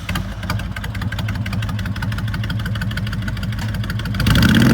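A 2005 Honda VTX1300S V-twin, freshly started, idles with an even pulsing beat through slash-cut Vance & Hines exhaust pipes. About four seconds in it is revved up and gets louder.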